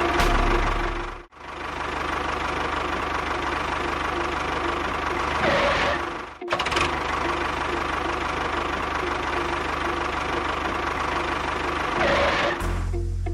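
A small engine running steadily with a rough, knocking note, cut off abruptly twice and resuming each time.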